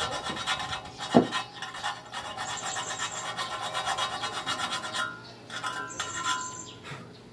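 Hand file rasping in quick repeated strokes across the cut edge of a metal motorcycle muffler pipe, smoothing an uneven cut, with one sharp knock about a second in and a brief let-up in the filing near the end.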